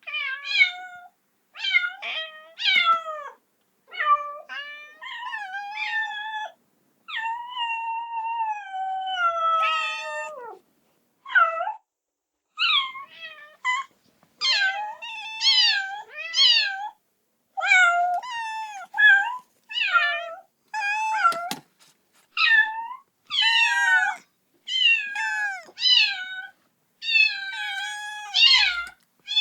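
Kitten meowing over and over in quick, high-pitched cries, one long call falling in pitch about seven seconds in: a kitten crying for its mother.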